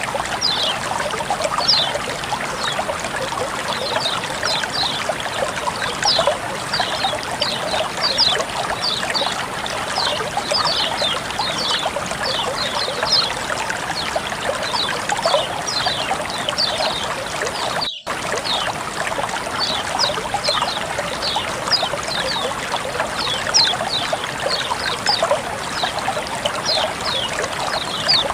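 Water trickling and running steadily, like a small stream or fountain, with a dense scatter of short, high plinks over it. The sound cuts out for an instant about eighteen seconds in.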